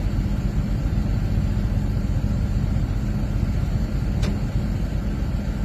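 Vehicle engine running steadily with a low rumble and a constant hum, and a single sharp click about four seconds in.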